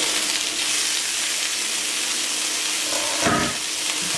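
Chicken drumsticks sizzling in hot oil in a frying pan, a steady hiss that starts suddenly as the glass lid comes off. A brief low bump about three seconds in.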